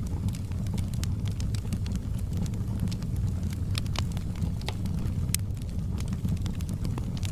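Wood fire in a fireplace crackling: frequent sharp, irregular pops and snaps over a steady low rumble of burning.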